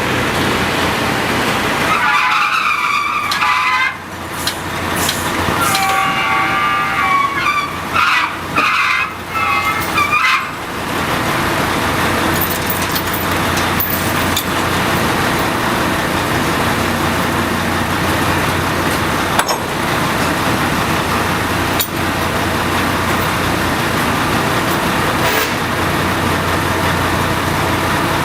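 Drilling rig floor machinery running loud and steady, with wavering high-pitched squeals coming and going for several seconds near the start.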